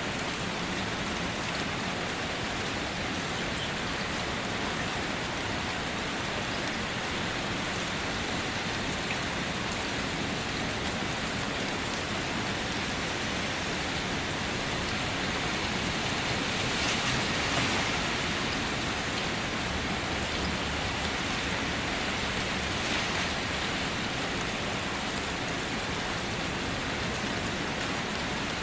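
Steady rain falling and pattering on surfaces, swelling slightly about halfway through.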